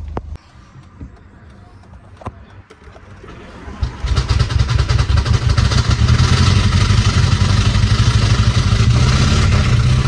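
Audi TT MK1 engine with a connecting rod thrown through the block, starting about four seconds in and running with a loud, fast, even knocking clatter: the sound of a destroyed bottom end.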